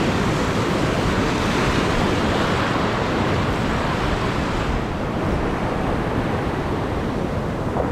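Steady wash of surf on a shallow reef edge, with wind buffeting the action-camera microphone.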